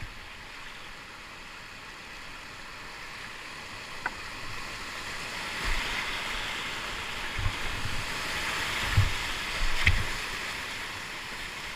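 Whitewater river rushing around a kayak, swelling louder partway through, with a few dull low thumps.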